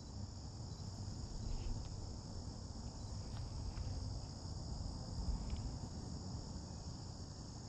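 Steady high-pitched insect chorus, like crickets chirring, with a low rumble underneath.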